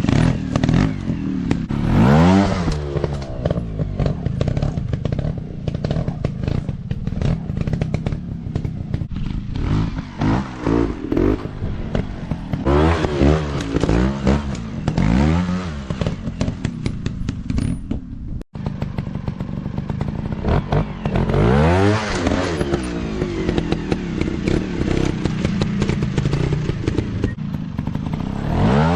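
Dirt bike engine revving up and down again and again, its pitch climbing with each burst of throttle, amid many sharp knocks and clatters. The sound breaks off for an instant just past the middle.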